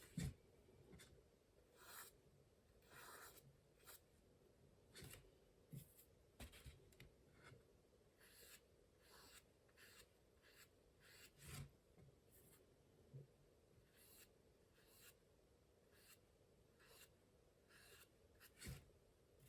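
Faint brush strokes of a paintbrush on watercolour paper, short and irregular, about one or two a second, as petals are painted in.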